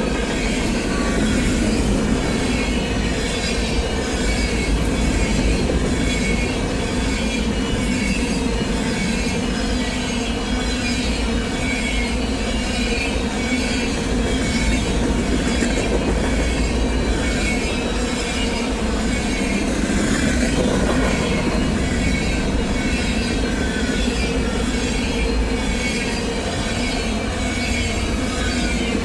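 Train passing at trackside, its cars rolling by with a steady rumble and clatter of wheels on rail, and a thin high squeal from the wheels.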